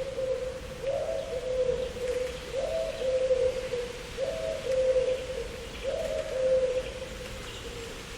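A dove cooing: four repeated low phrases about a second and a half apart, each a couple of notes stepping down, stopping near the end, over a faint steady hiss.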